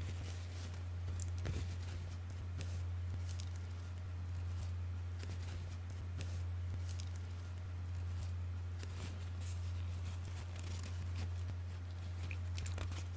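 ASMR trigger sounds: soft, scattered crackles and rustles close to the microphone, over a steady low hum.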